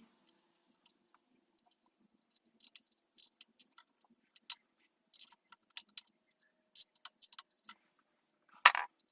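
Scattered light metallic clicks and clinks of a spanner working bolts out of an engine's sump pan, irregular and sparse, with a louder clatter near the end.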